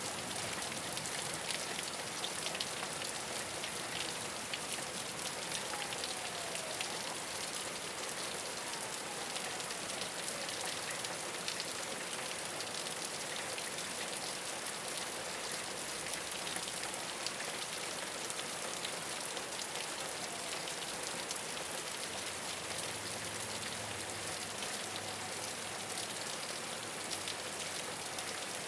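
Steady rain falling on a rooftop: an even hiss dotted with many fine drop ticks.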